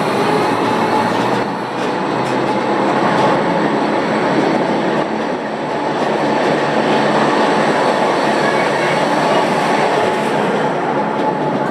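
Gornergrat Bahn electric cogwheel (rack) train running steadily: a continuous rail rumble with a thin, steady whine over it.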